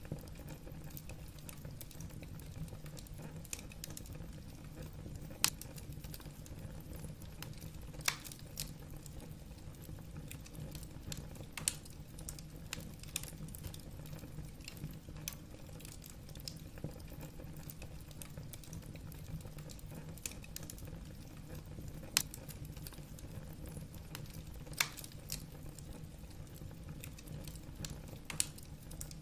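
Wood fire crackling in a fireplace: irregular sharp pops and snaps from the burning logs over a steady low rumble.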